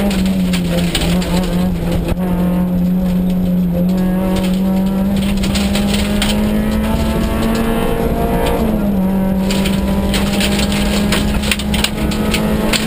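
Peugeot 106 N2 rally car's engine running hard at high revs, heard from inside the cabin. The engine note climbs from about six seconds in, then drops sharply just before nine seconds at an upshift and carries on pulling.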